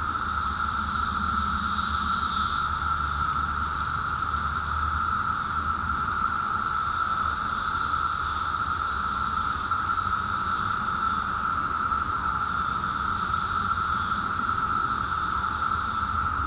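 Dense chorus of 17-year periodical cicadas (Brood II) making a steady, unbroken drone. A higher hiss swells and fades over it every second or two.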